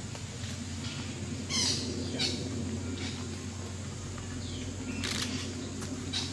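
Short, sharp, high-pitched bird calls, about five of them, one sweeping down in pitch, over a steady low hum.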